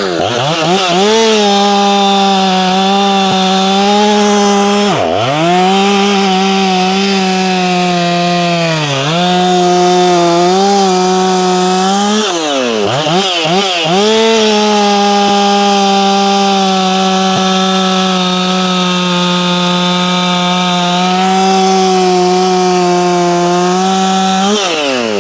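Ported Efco 165 two-stroke chainsaw running flat out at about 12,000 RPM while cutting wood. The note sags briefly three times as the bar is pressed into the cut, then recovers, and it drops away as the throttle is released at the end.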